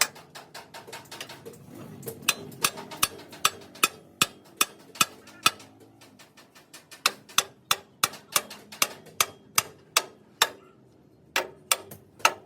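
Hammer blows on metal in steady runs of about two to three sharp strikes a second, with brief pauses between runs.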